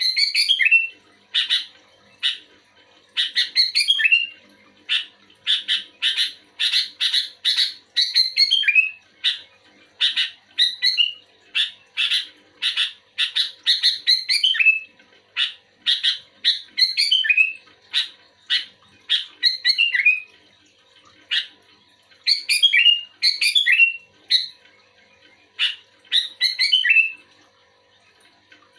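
Sooty-headed bulbul (kutilang) calling energetically: quick runs of short, sharp notes broken by brief pauses, some ending in a bubbling, warbled phrase.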